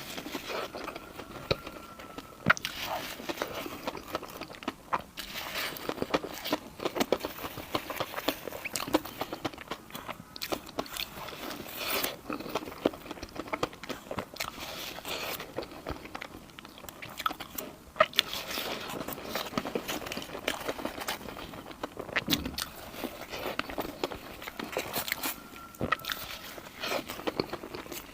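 Close-miked eating: a person biting and chewing crunchy food, with a dense run of short crisp crackles and crunches.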